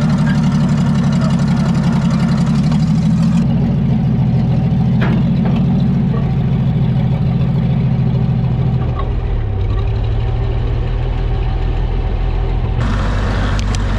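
Oliver OC-6 crawler tractor's engine running steadily, its low note dropping lower about nine seconds in as it slows.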